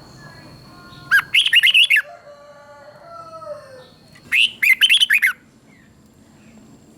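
Red-whiskered bulbul singing two short, loud phrases of quick warbled notes about three seconds apart, with softer whistling notes in between.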